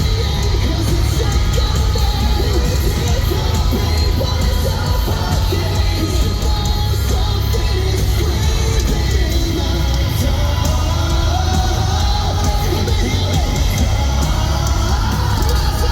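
Metalcore band playing the song live, with strong bass and sung vocals, over a crowd yelling and cheering.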